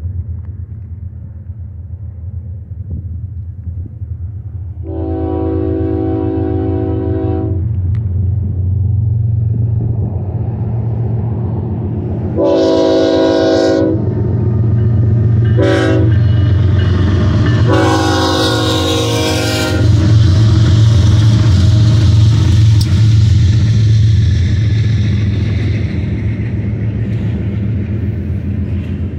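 BNSF intermodal train led by four GE diesel locomotives, an ES44C4 in front, approaching and passing with a steady low engine rumble that grows louder. The lead unit's air horn sounds long, long, short, long, the standard grade-crossing signal. As the locomotives go by, double-stack container cars follow, rolling past with rattling wheel noise.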